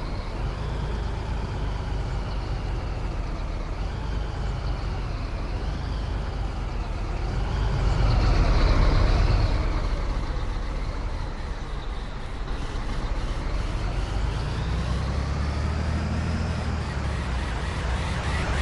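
Scania 113H truck's six-cylinder diesel running under way, with a deep rumble and a high whine that rises and falls with engine speed; it swells a little about halfway through.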